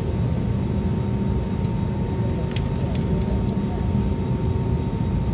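Steady cabin noise of an Airbus A320neo on the ground just before takeoff: the engines' low rumble at low power with a thin steady whine over it. A few light clicks come about halfway through.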